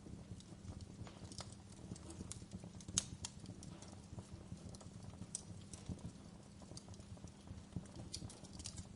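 Wood fire burning in a fireplace: a low steady rumble under irregular sharp crackles and pops, the loudest pop about three seconds in.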